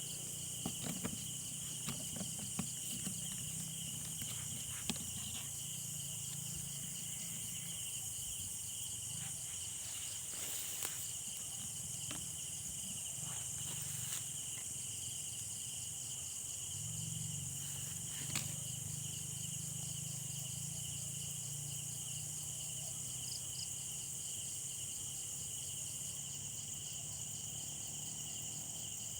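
Steady high-pitched chorus of night insects, with a few faint clicks in the first few seconds.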